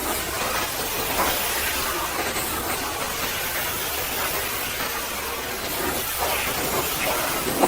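Pressure washer spraying a steady hissing jet of water against a mud-caked truck, with a few sharper spatters near the end.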